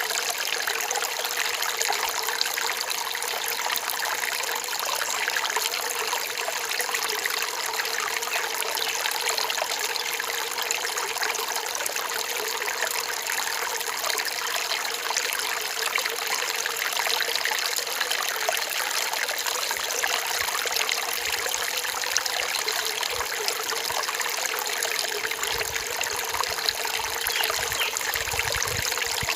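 Forest stream running steadily over rocks, an even trickling and splashing of water.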